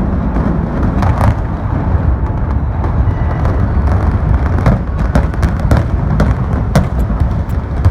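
Continuous heavy low rumble with many sharp cracks and snaps scattered through it, the sound of a structure being torn down.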